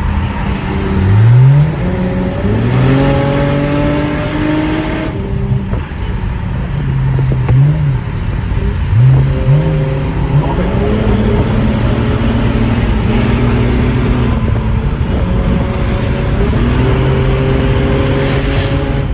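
Car engine revving and accelerating: the engine note climbs sharply several times, with a steady pull between the climbs.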